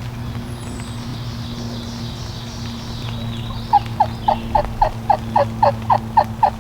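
A series of about eleven turkey yelps, evenly spaced at roughly four a second and each note sliding down, starting a little past halfway; a low steady hum runs underneath.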